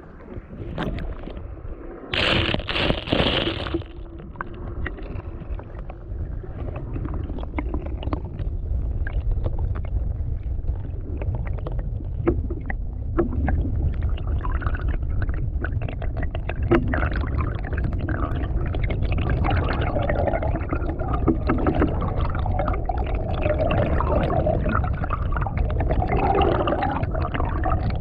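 Wind buffeting the microphone on open water, with water slapping at a canoe and small knocks against the hull. There is a brief rushing noise about two seconds in, and the wind grows louder after several seconds.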